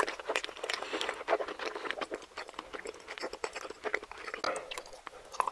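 Close-miked chewing of a steamed dumpling: soft, wet mouth clicks and smacks in quick, irregular succession.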